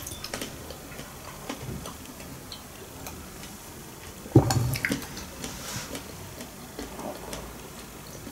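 Close-up eating sounds: soft chewing and small wet mouth clicks, with one louder thud about four seconds in.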